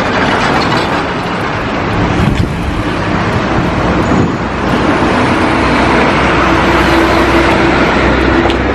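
Road vehicle noise: engines and tyres rushing steadily. About halfway through, a steadier engine drone joins in.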